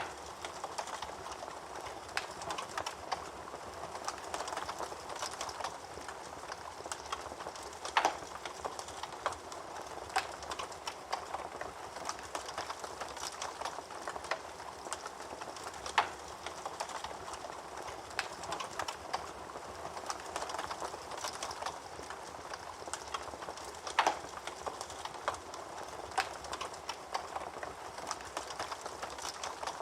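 Wood fire burning in a fireplace, crackling steadily with many small pops over a soft hiss. Three louder snaps come about eight seconds apart.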